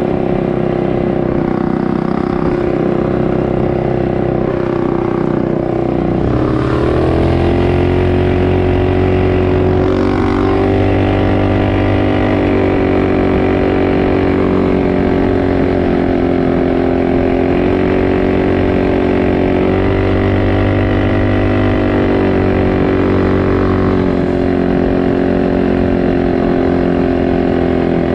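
Small single-cylinder four-stroke off-road bike engine running under way, picking up revs about six or seven seconds in. It then holds a fairly steady pitch, with brief small dips as the throttle eases.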